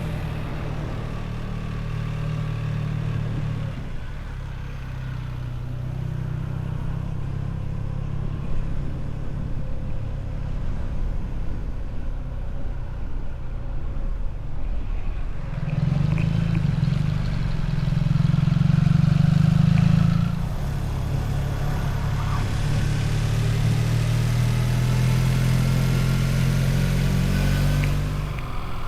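Motorcycle engine running steadily under way, with a spell of harder pulling about two-thirds of the way through that makes it louder.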